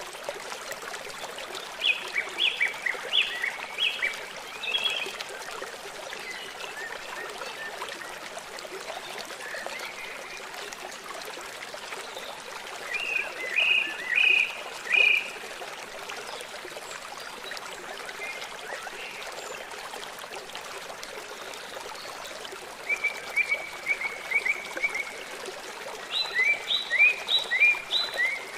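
Running water with a steady hiss, and songbirds singing short phrases of quick notes over it: one burst a couple of seconds in, another around the middle, and a run of quick notes near the end.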